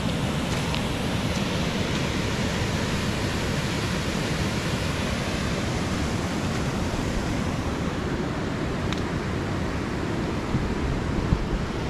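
Waterfall and river water rushing in a steady, even roar, with a few small knocks near the end.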